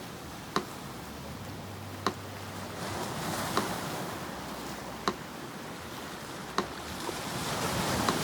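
Metronome ticking slowly, one sharp click every second and a half, over the steady wash of sea surf, which swells near the end.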